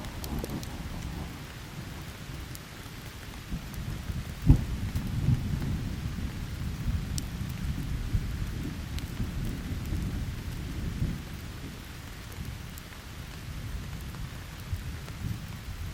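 Steady rain with rolling thunder: a sharp thunderclap about four and a half seconds in, then several seconds of low rumbling that slowly fades.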